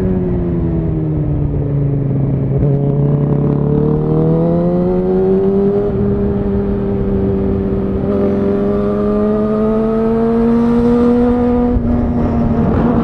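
Suzuki GSX-R1000R inline-four running through a Yoshimura R-11 SQ exhaust, heard from on board while riding. The engine note falls off over the first few seconds, then climbs again and pulls steadily with a slow rise, with a brief break near the end, like a gear change, before it picks up again.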